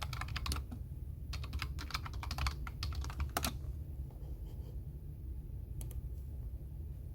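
Typing on a computer keyboard: quick runs of key clicks with a short pause about a second in, the typing stopping about three and a half seconds in, with a couple of single key clicks near the end, over a steady low background rumble.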